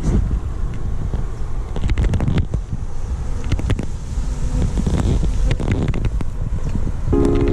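Low, rumbling wind noise on the microphone with scattered knocks and clicks. Steady synthesizer music comes in just before the end.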